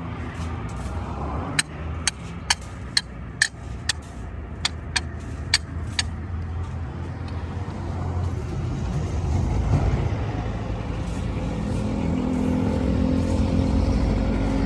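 A run of about ten sharp metal knocks, roughly two a second, in the first half. Then a heavy vehicle's engine rumble builds up and holds steady near the end.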